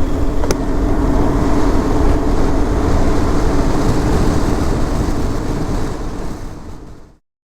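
Motorcycle riding sound from a helmet microphone: a 2018 BMW R1200GS's boxer-twin engine running steadily under wind and road noise, with one sharp click about half a second in. The sound fades out near the end.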